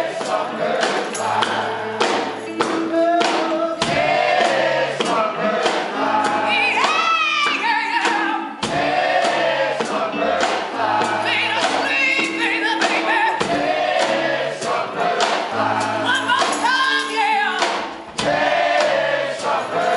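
Live band playing a slow rock ballad with sung vocals over it: bass notes, drum hits and wordless singing.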